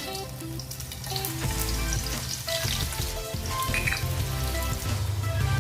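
Garlic frying in hot sunflower oil in a pan, a steady sizzle with small crackles.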